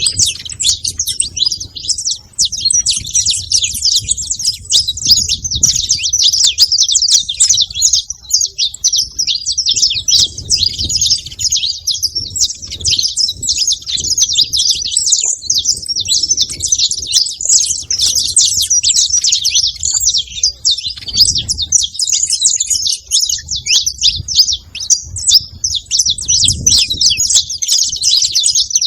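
Saffron finch singing, a continuous dense run of rapid high chirps and trills with no pause.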